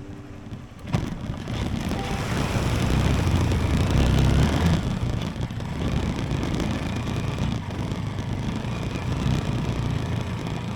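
Haojue NK 150 motorcycle riding on the road, its engine mixed with heavy wind rush over the microphone. The sound comes in suddenly about a second in and carries on loud and steady.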